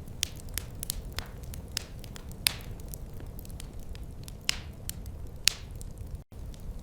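Wood fire crackling: irregular sharp pops and snaps, a few louder ones, over a low steady rumble. The sound cuts out for an instant near the end.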